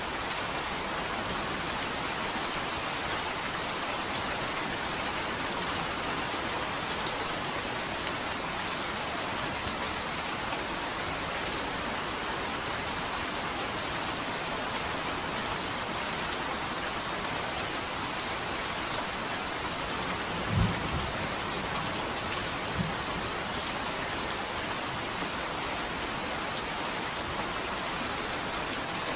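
Steady rain hiss, with a short low thunder thump about two-thirds of the way through and a smaller one a couple of seconds later.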